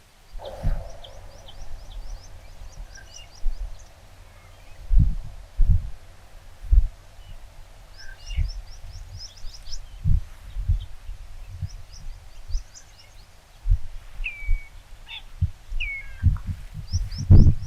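Birds calling outdoors: several runs of quick, high, clipped notes, with a few lower drawn-out notes near the end. Low thumps on the microphone, louder than the birds, come and go throughout.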